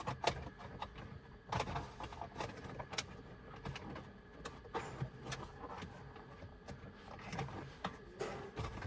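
Irregular clicks, taps and rustling of things being handled inside a car, a few sharper knocks among them.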